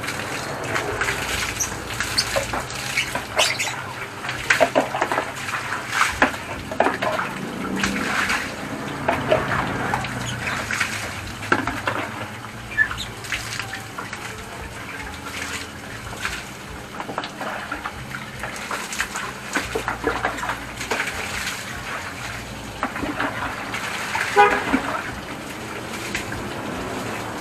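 Water spraying and splashing in irregular bursts during a motorcycle wash, with a steady low hum underneath.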